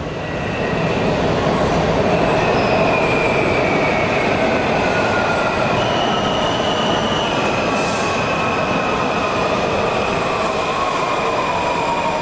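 Subway train in motion: steady ride noise with long, high-pitched squealing tones that slowly fall in pitch.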